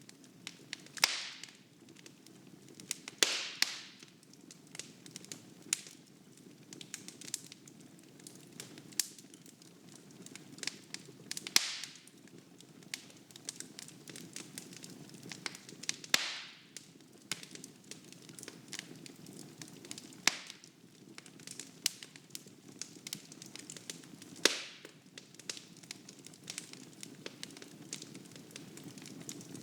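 Wood fire burning in a fireplace: steady crackling with irregular sharp snaps and a handful of louder pops over a low, even rush of flame.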